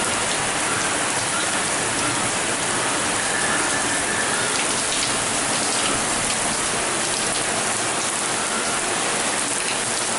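Heavy rain falling steadily, a dense even hiss of rain on surfaces with scattered drop ticks.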